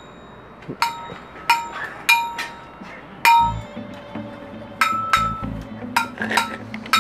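About ten sharp metallic clangs, each with a short ringing ping, fired off at irregular intervals like bullet-impact sound effects in a gunfight. A low music bed comes in about three seconds in.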